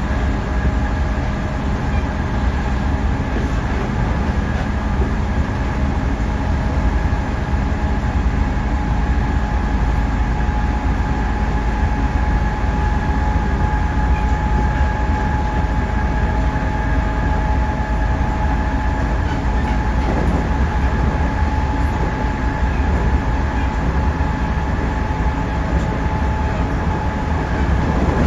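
JR Central 311 series electric multiple unit running at speed between stations: a steady low rumble of wheels on rail with a steady whine over it.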